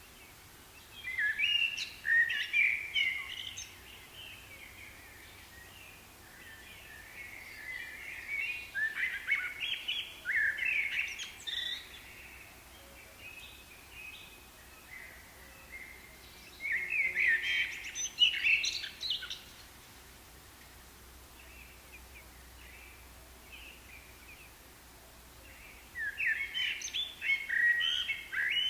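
A songbird singing: bouts of quick, varied warbling notes of about three seconds each, repeated four times with pauses of several seconds between them.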